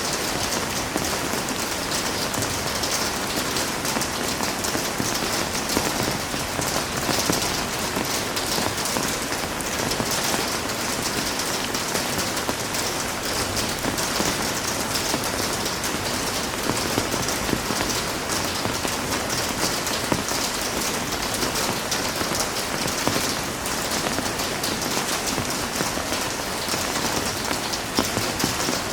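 Heavy rain falling steadily, a dense hiss of drops with many small patters on surfaces.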